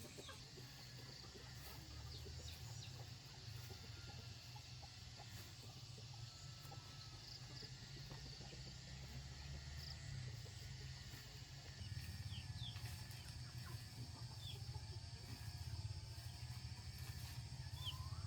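Faint chickens clucking and small birds chirping over a steady low rumble.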